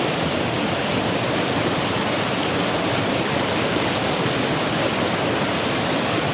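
Steady rushing of a mountain creek's current.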